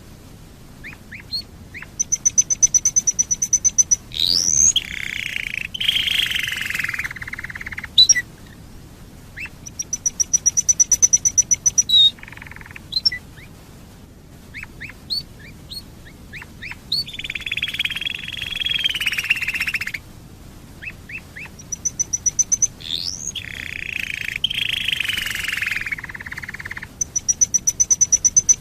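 Domestic canary singing: repeated song phrases, each a fast, even, high-pitched trill, then a quick rising sweep and a lower buzzy warble lasting a couple of seconds.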